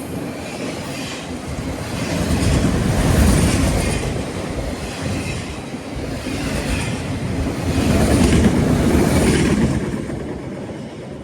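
Train passing close by: a loud rumble of wheels on rail with clicking over rail joints, swelling twice and fading near the end.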